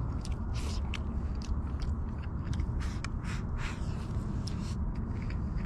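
A person chewing and eating food close to the microphone, with many short crunchy clicks from the mouth and utensils. A steady low rumble runs underneath.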